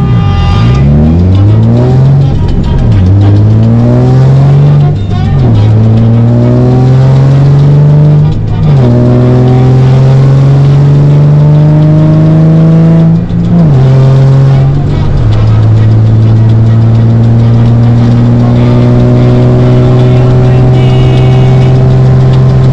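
Nissan 350Z's 3.5-litre V6 accelerating through the gears: the engine note rises, drops sharply at each upshift about 5, 8.5, 13 and 15 seconds in, then settles into a steady cruise.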